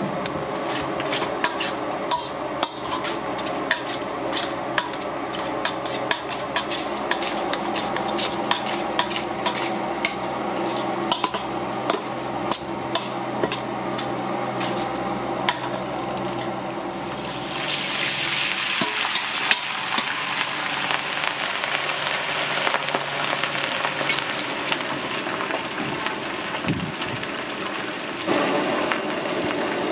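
Metal utensils tapping and clinking against a cooking pan. Then, a little past halfway, food goes into hot oil and a loud hissing sizzle of deep-frying starts, fading near the end.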